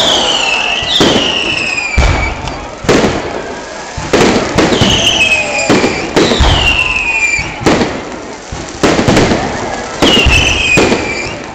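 Fireworks display: shells bursting with sharp bangs about once a second, several of them followed by a falling whistle.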